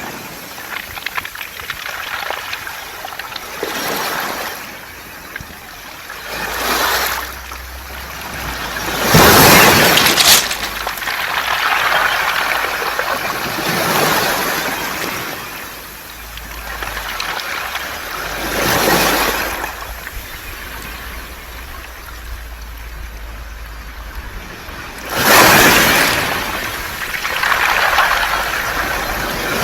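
Sea waves washing up and drawing back over a beach of smooth round pebbles, the stones rattling and hissing in the backwash. The surf swells and falls every few seconds, with two stronger waves, one about a third of the way in and one near the end.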